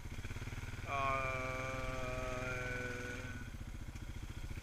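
ATV engine running steadily at a slow trail pace. From about one second in, a long, slightly falling pitched tone is held over it for two and a half seconds.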